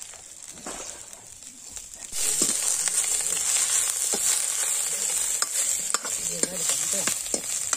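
Onion, garlic and ginger frying in oil in a metal kadai, with a metal ladle stirring and scraping the pan. The sizzle jumps abruptly louder about two seconds in and then holds steady, with scattered clinks of the ladle.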